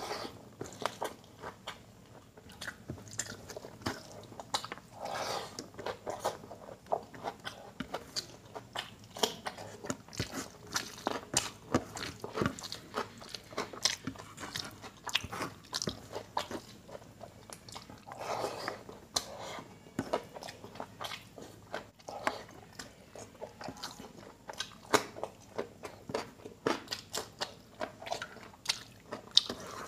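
Close-miked eating sounds of a man chewing handfuls of rice and curry, with many short, sharp wet mouth clicks and crunches at an uneven pace.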